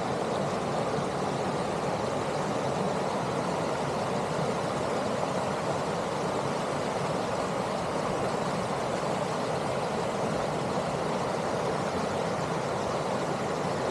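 A rushing stream: a steady, unbroken rush of flowing water.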